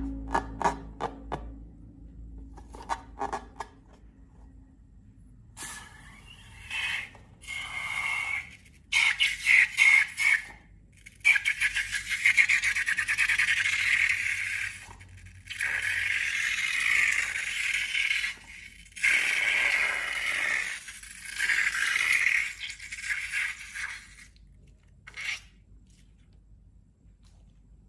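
Slime being worked by hand, giving crackling, squelching stretches that come and go in several long bursts after a few quiet clicks.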